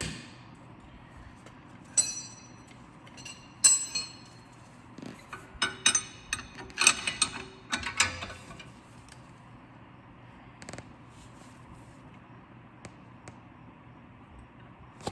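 Metal tools clinking and clanking against a seized, torch-heated strut bolt as it is worked loose: single ringing clanks about two and four seconds in, then a run of ringing metallic clinks, then quiet.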